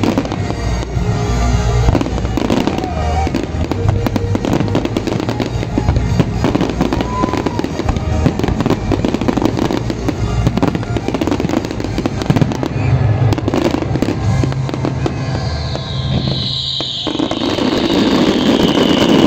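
Fireworks display: a dense run of bangs and crackles from bursting aerial shells, over music. A few seconds before the end the music drops out, leaving a thick crackle and a high whistle falling in pitch.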